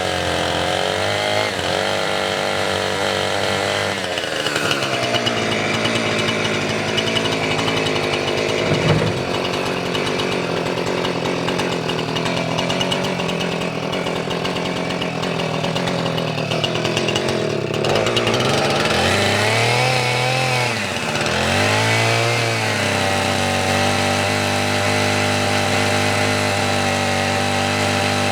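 Gasoline chainsaw cutting firewood logs, its engine running continuously. The engine's pitch dips and climbs back several times, most clearly about two-thirds of the way through, then holds a steadier tone near the end.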